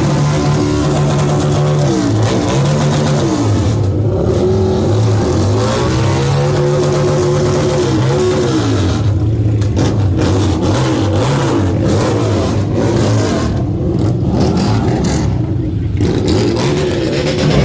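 Harley-Davidson V-twin motorcycle engine accelerating and shifting gears, its pitch repeatedly climbing and then dropping, over a steady rush of noise.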